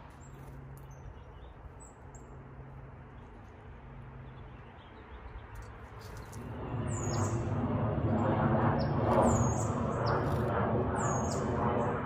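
Small birds calling with short, high, downward-slurred chirps a few times in the second half. Under them, a low rumble with a hum swells up about six seconds in and becomes the loudest sound.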